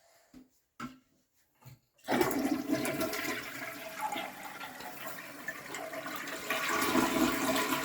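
Test flush of a toilet fitted with a new Fluidmaster flapper flush valve. A few faint clicks come first, then about two seconds in the water rushes out of the tank into the bowl and keeps going.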